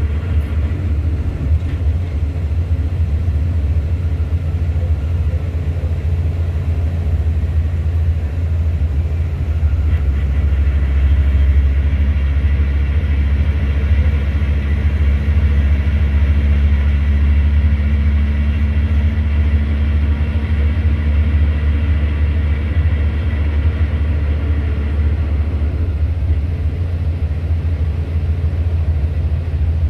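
A steady low engine rumble that holds the same level throughout, with a faint hum above it.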